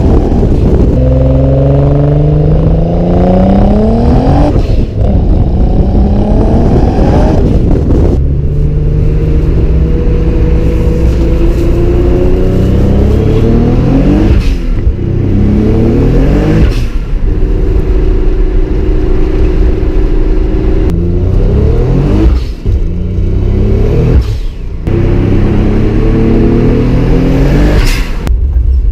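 Nissan 300ZX (Z32) twin-turbo V6 through a Stillen cat-back exhaust, accelerating through the gears. The engine's pitch rises, drops at each upshift, and holds steady for a few seconds of cruising between pulls.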